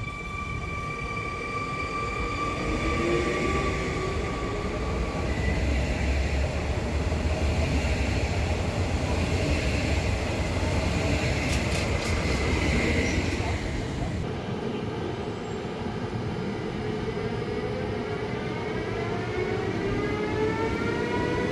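Electric multiple unit moving through the station: a steady motor whine, then heavy wheel-on-rail rumble. About two-thirds of the way in, an electric locomotive hauling a passenger train takes over, its traction motors whining in several tones that rise together as it accelerates.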